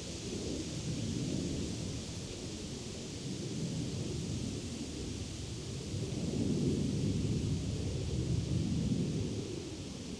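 Wind blowing through leafy summer trees: a steady hiss of rustling leaves over a low, gusty rumble that swells and eases, strongest about six to nine seconds in.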